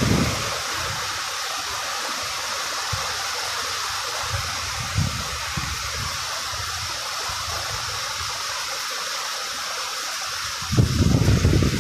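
Light rain falling with a steady hiss, with low rumbles of wind on the microphone, loudest near the end.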